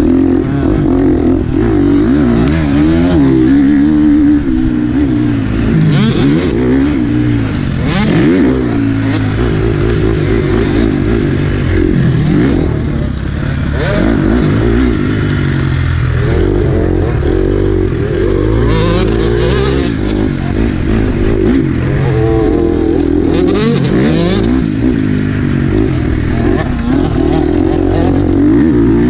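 Motocross dirt bike engine running hard on the track, revving up and dropping back over and over, its pitch rising and falling every few seconds.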